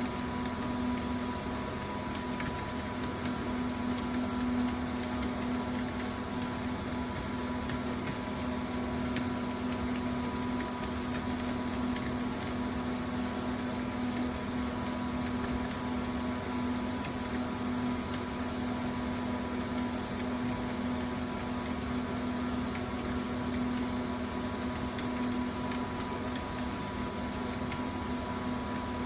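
Steady mechanical hum, with a low tone and a fainter higher whine, like a fan or air conditioner running.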